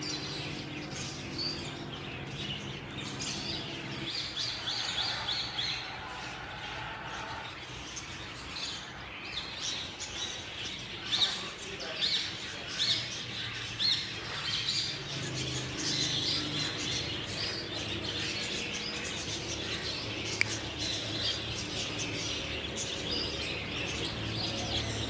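African grey parrot chirping and whistling over and over, with a few sharp, loud calls about halfway through.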